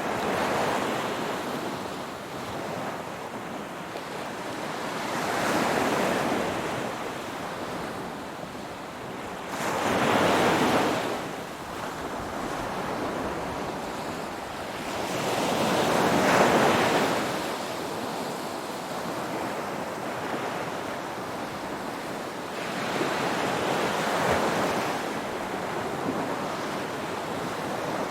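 Ocean waves breaking and washing in: the surf rises and falls in about five swells, one every five or six seconds, over a steady hiss.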